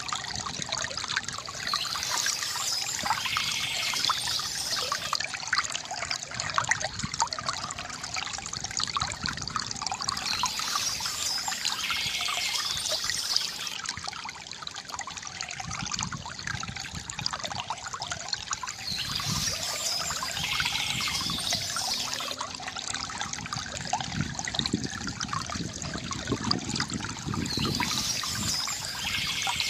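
River water gurgling and trickling steadily. Short bursts of high bird chirping come in about every nine seconds.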